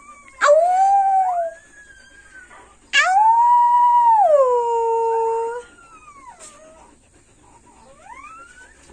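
Three-day-old husky puppy howling: two loud howls, the first about a second long, the second about two and a half seconds long, stepping down to a lower pitch halfway through. Fainter whines come between the howls and near the end.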